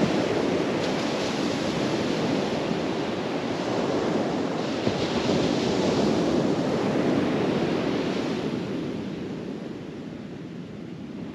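Ocean surf washing onto the beach, with wind buffeting the microphone; the wash swells and eases off over the last few seconds.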